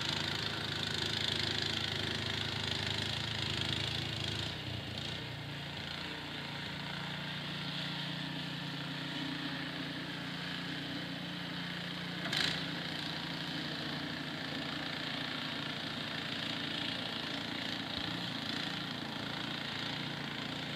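Snowblower's small engine running steadily, its note dropping slightly about four and a half seconds in. A single sharp click comes about twelve seconds in.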